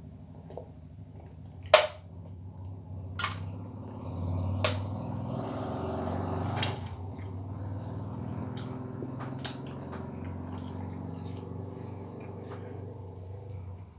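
Eating sounds from a person eating starch with okra soup: wet mouth and chewing noises with four sharp clicks spread through the first half. A steady low hum runs underneath.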